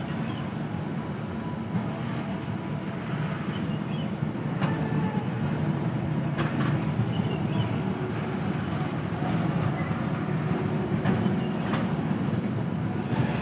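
Train running past: a steady low rumble with a few sharp clicks spread through it.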